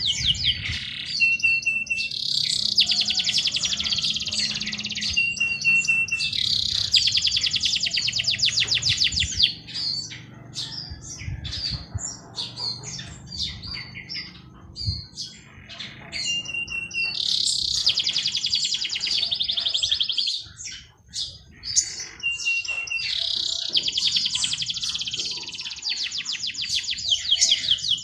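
Songbirds singing. One bird repeats a song four times, each a short steady whistle followed by a long, fast trill, with scattered short chirps from other birds between the songs.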